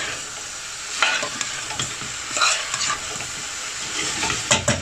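Chicken and diced vegetables sizzling as they fry on high heat in a stainless steel saucepan, with a steady hiss. A metal spoon scrapes and clinks against the pan every second or so as they are stirred.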